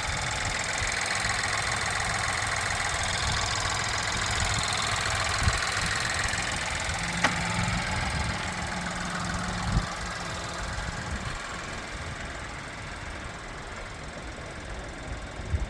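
GM 1.2-litre turbocharged three-cylinder engine idling steadily, heard from the open engine bay. There is a single sharp click about seven seconds in and a light knock about ten seconds in, and the sound eases a little toward the end.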